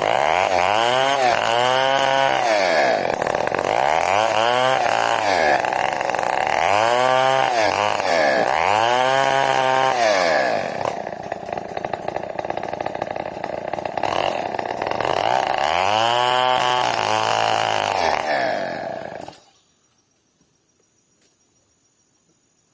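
Large two-stroke New West 070 chainsaw running through wood, its engine speed repeatedly rising and falling, easing off for a few seconds in the middle. The engine stops abruptly near the end, leaving near silence.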